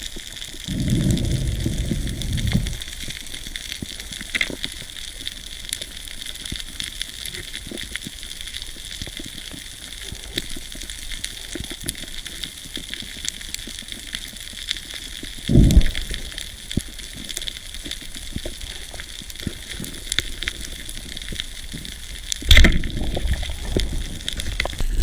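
Underwater ambience: a steady crackling hiss of fine clicks, broken by short low rushes of water near the start, once midway and again near the end.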